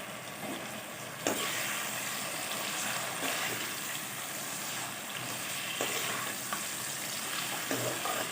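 Marinated chicken pieces sizzling as they fry in hot mustard oil in a kadai, with a few light knocks from stirring in the pan.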